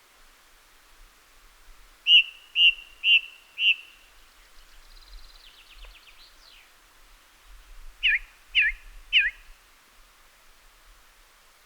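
A bird calling: four short, evenly spaced whistled notes, then a quick trill of falling notes, then three sharp down-slurred notes.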